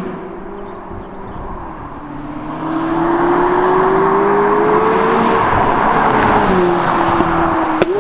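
McLaren 570GT's twin-turbo V8 accelerating hard: the engine note climbs steadily in pitch and grows louder for a few seconds, then falls and settles into a steady drone. A sharp click comes just before the end.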